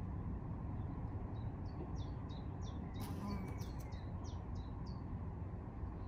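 A songbird singing a run of short, high, down-slurred notes, about three a second, over a steady low background rumble. A brief crackle comes about three seconds in.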